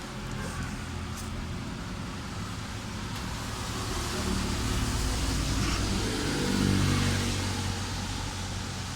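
A motor vehicle passing with a steady low rumble, its engine growing louder from about four seconds in, loudest near seven seconds, then fading.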